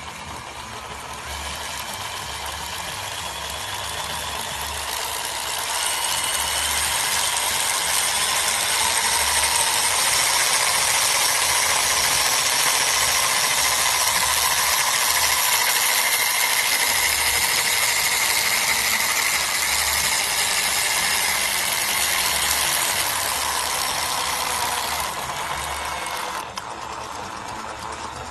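Helicopter transmission gear train running, a steady mechanical whirr with a faint whine. It builds up over the first few seconds, holds, then drops back slightly near the end.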